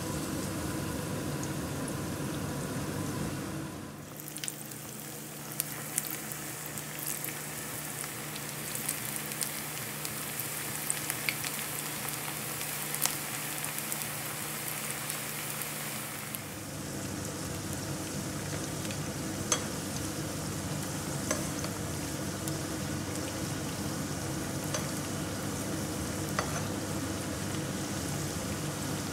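Onion pakoras deep-frying in hot oil: a steady sizzle dotted with sharp crackles and spits. It is busiest from about four seconds in until about sixteen, while a fresh batch of pale battered pieces bubbles hard, then settles to a calmer sizzle with occasional clicks.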